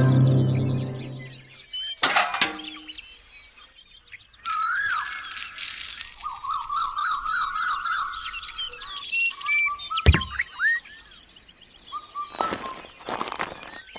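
Birds chirping, with a wavering trill a few seconds in, a single sharp knock about ten seconds in and a quick run of clicks near the end.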